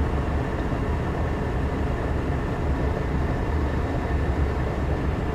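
Gas furnace running, its burners firing with a steady low rumble. The gas pressure is now set to 3.5 inches of water column after the furnace had been overfiring.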